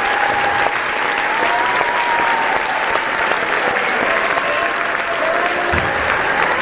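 Crowd applauding: dense, steady clapping with no let-up.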